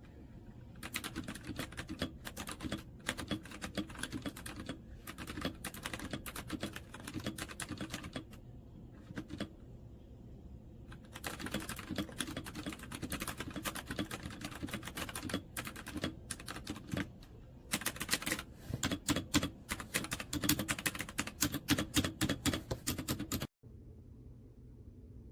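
Typing on a Redragon K556 mechanical gaming keyboard: fast runs of key clicks in bursts, with a couple of short pauses, stopping suddenly near the end.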